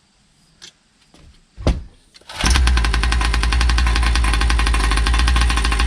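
Gas engine of a Primal R/C Raminator large-scale RC monster truck starting after a click and a sharp thump, then running steadily at idle: a new engine being broken in.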